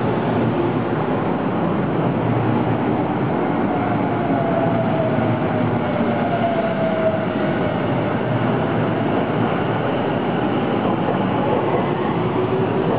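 Tobu 50070 series electric train running along the station platform: a steady rumble of wheels on rail, with a faint tone that wavers and slides up and down.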